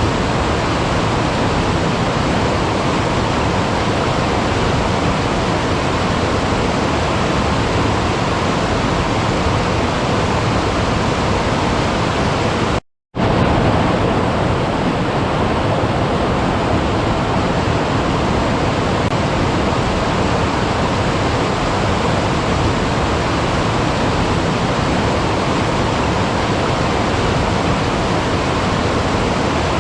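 Running water rushing steadily, a dense even roar. About 13 seconds in it cuts out completely for a split second, then resumes with a little less hiss on top.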